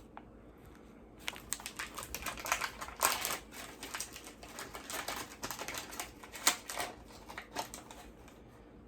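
Small items and plastic packaging being handled and rummaged through, giving an irregular run of light clicks and rustles that starts about a second in and thins out near the end.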